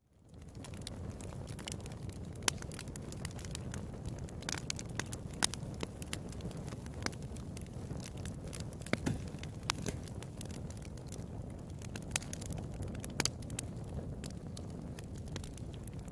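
Wood fire burning in a fireplace, a steady low rumble of flames with frequent sharp crackles and pops scattered irregularly. The sound fades in at the very start.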